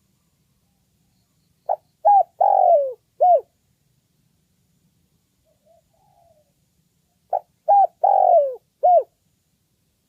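Spotted dove cooing: two phrases about five and a half seconds apart, each of four coos: two short notes, a longer falling coo, then a short final note.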